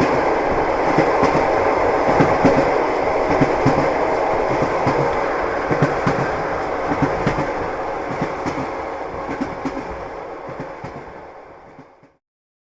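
A moving passenger train heard from inside the carriage: a steady rumble with the knocking and clatter of the wheels over the rails. It fades out over the last few seconds and stops about twelve seconds in.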